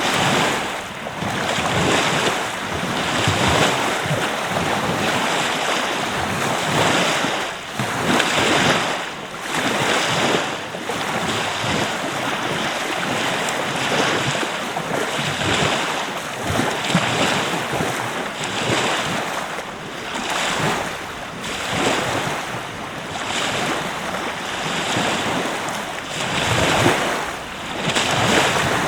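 Surf washing onto a beach: a steady rushing noise that swells and eases every second or two, with wind gusting on the microphone.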